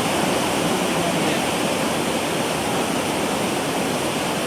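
Swollen floodwater river rushing, a loud steady roar of water.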